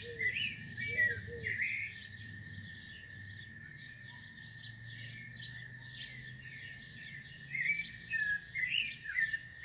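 Small birds chirping in quick clusters of short rising and falling notes, busiest in the first two seconds and again near the end, over a steady high-pitched tone.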